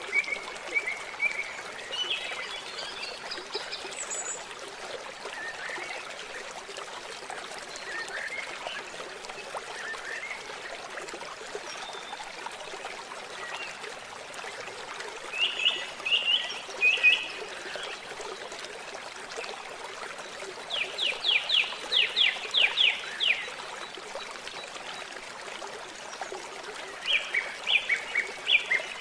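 Water trickling and running steadily, with birds calling over it: scattered short chirps and, about two-thirds of the way in, a fast run of about ten sharp notes, the loudest sound here.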